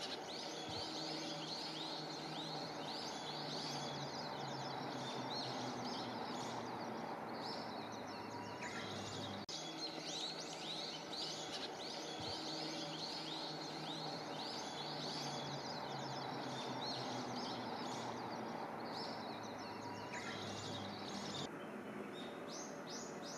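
Birds chirping rapidly and repeatedly in high, arching notes over a faint steady low hum. The chirping thins out near the end.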